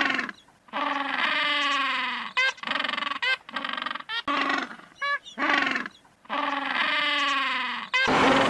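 An animal's repeated pitched calls: two long cries of about a second and a half each, with short sharp notes between them, in a repeating pattern. A burst of noise starts near the end.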